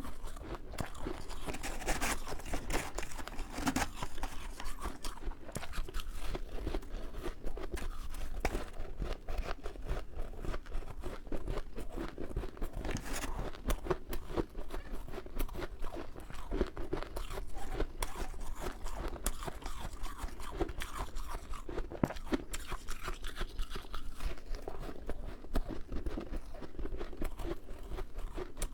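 Close-up chewing and crunching of powdery freezer frost, a dense run of small crackling crunches.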